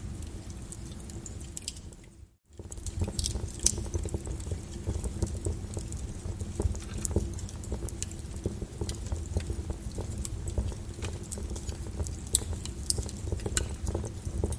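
Rain falling steadily with a crackling fireplace fire: frequent sharp crackles and pops over a steady rain hiss and low rumble. About two seconds in, the sound briefly drops out and returns half a second later.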